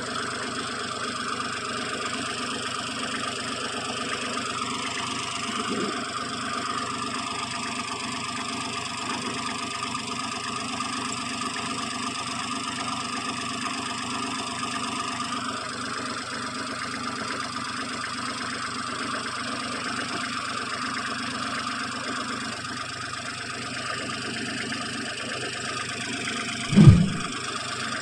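A heavy machine's engine running steadily, its note shifting slightly a few times, with one brief loud low thump near the end.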